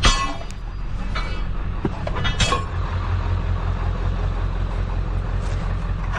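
Vehicle engine idling steadily, with three ringing metal clanks of steel workout bars being handled: at the start, about a second in, and about two and a half seconds in.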